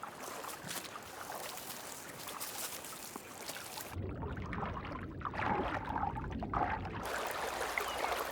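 Water trickling and splashing around a beaver dam. A little past the middle the sound turns muffled and deeper for a few seconds before brightening again.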